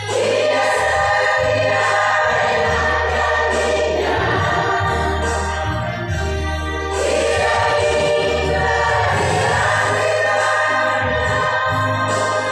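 A choir singing in long, held phrases over a steady low bass line, with short breaks between phrases.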